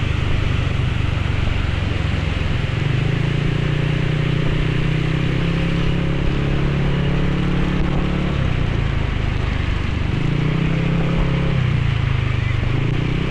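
Motorcycle engine running at steady revs under a constant hiss of wind and rain. The engine note drops away twice, briefly, in the second half.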